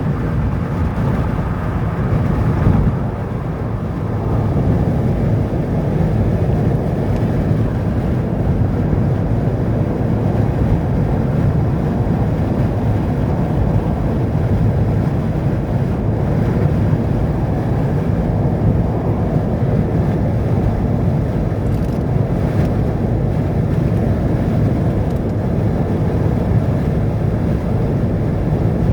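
Steady rumble of a vehicle travelling on a road, with wind noise on the microphone, dipping slightly about three seconds in.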